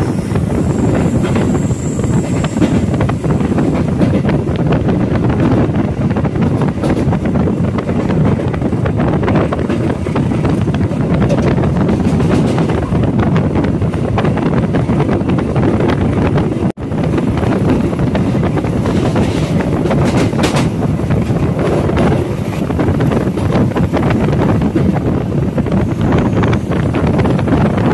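Blambangan Ekspres passenger train running at speed: a loud, steady rumble of wheels on rails, mixed with wind buffeting the microphone. The sound drops out for an instant about 17 seconds in.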